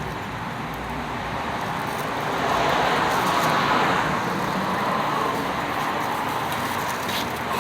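Road traffic noise, swelling as a vehicle passes about two and a half seconds in and then easing off.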